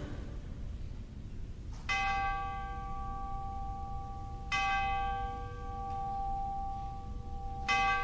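A single bell struck three times, about three seconds apart, each strike ringing on with the same steady tones until the next.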